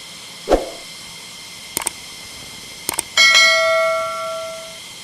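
A bell-like chime rings out and fades over about a second and a half, after a soft thump and a few sharp clicks.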